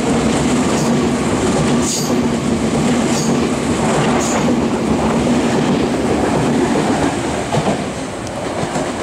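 Meitetsu 3300-series and 3100-series electric train passing through a station at speed without stopping: a steady rush of wheels on rail with a few sharp clacks. It fades as the last car goes by near the end.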